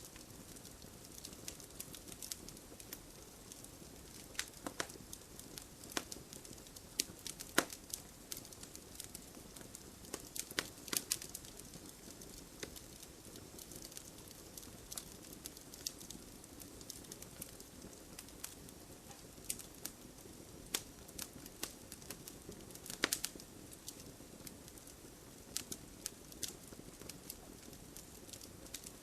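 Fire in a fireplace crackling: a steady soft hiss and rustle under irregular sharp pops, the loudest about a quarter of the way in and again about three quarters of the way in.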